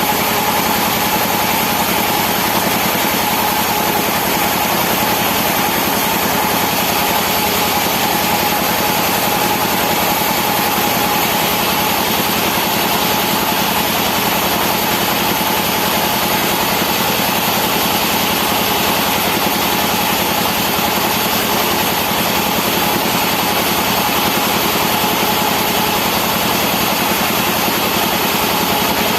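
Engine-driven sawmill machinery running steadily: a constant engine hum with a steady whine that does not change.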